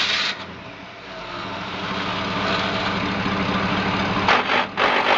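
Dubbed-in rocket-engine sound effect: a steady engine-like drone under a rushing noise that builds over the first two seconds and then holds.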